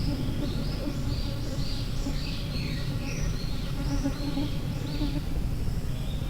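Summer forest calls: a run of high, repeated swooping notes, about two a second, over a steady low rumble.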